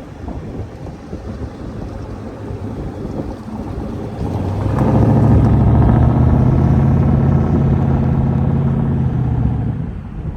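A car engine pulling hard. About four and a half seconds in it comes up to high revs and holds there steadily for about five seconds, then drops off near the end.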